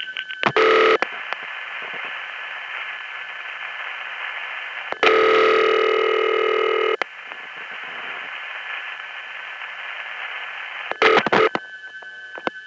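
Analog telephone call audio over a wire trunk: steady hiss of trunk noise, with a ring of about two seconds in the middle as the call rings a phone company test line. Short loud tone bursts about half a second in and near the end, then a steady tone, as the test line picks up and hangs up.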